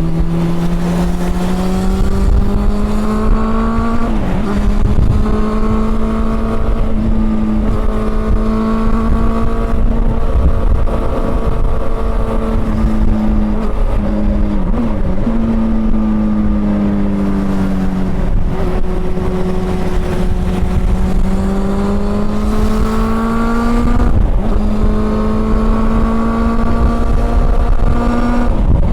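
Honda CB400 Super Four's inline-four engine under way: it pulls up through the revs with brief gear changes about 4, 15 and 24 seconds in, eases off and drops in pitch in the middle, then builds again.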